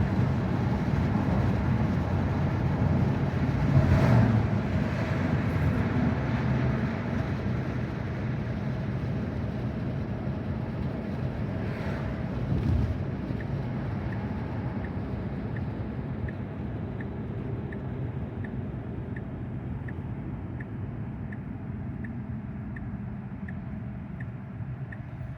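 Road and tyre noise inside the cabin of an electric Tesla Model Y, growing quieter and duller through the second half as the car slows. From about halfway in, a turn-signal indicator ticks steadily, roughly once every three-quarters of a second.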